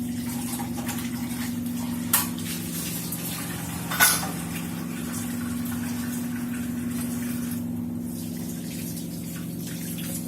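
Tap water running steadily over a low, even hum, with two sharp knocks about two and four seconds in, the second louder.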